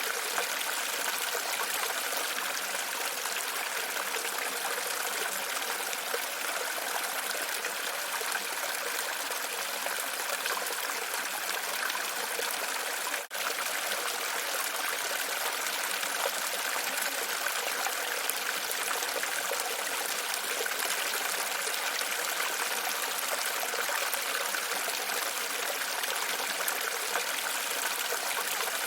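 Steady running, trickling water, an even rush with no rhythm, briefly cutting out about 13 seconds in.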